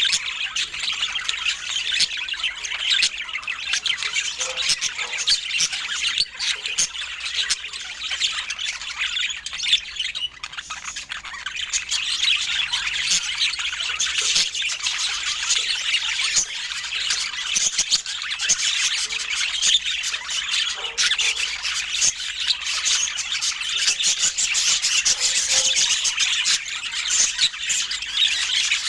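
Budgerigars chattering and chirping without a break, a dense mix of warbles, squawks and short clicks.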